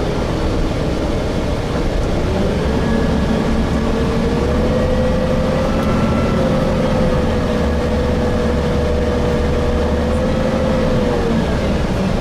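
Gillig Phantom transit bus with a Voith transmission running under way, heard from inside: a steady low drivetrain rumble and road noise, with a whine that rises a couple of seconds in, holds steady, and drops away near the end.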